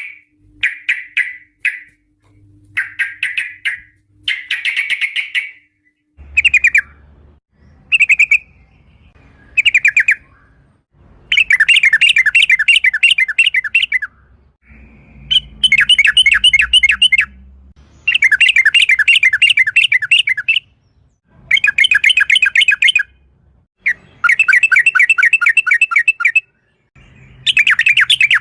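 Yellow-vented bulbul (trucukan) singing. Short bubbly phrases come first, then long, rapid trilling phrases of two to three seconds each, repeated with brief gaps.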